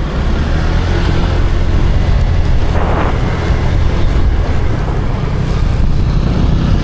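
A vehicle's engine and road noise heard while travelling in it: a steady low hum, with a brief rushing hiss about three seconds in.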